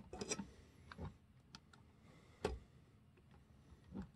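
Faint, irregular clicks and taps of a small plastic scale tractor model being handled, a few separate knocks with the clearest about two and a half seconds in.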